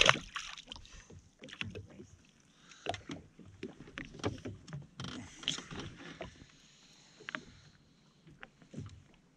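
A sharp knock right at the start, then irregular clicks, knocks and small water sounds around a jetski.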